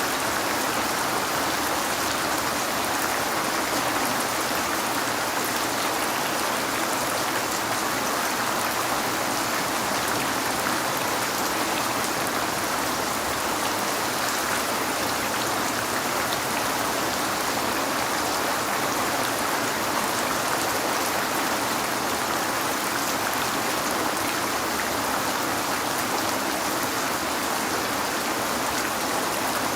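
Rain falling steadily on a window, an even hiss of drops that does not change.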